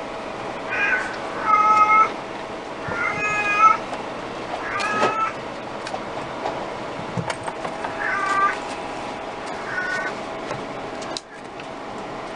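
Scottish Fold kitten meowing repeatedly: about six short, high-pitched meows spread over ten seconds, with a steady faint hum underneath.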